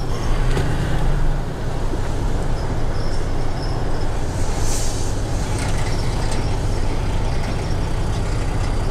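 Motor vehicle running steadily, a continuous low rumble with road and engine noise. A brief hiss comes about halfway through.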